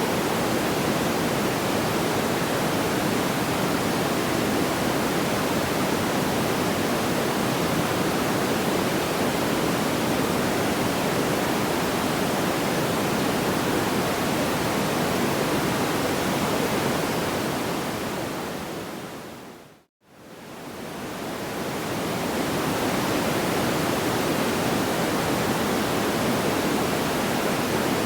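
Steady, even hiss like pink noise with no crackles or pops. About two-thirds of the way through it fades smoothly down to silence and straight back up, a loop seam.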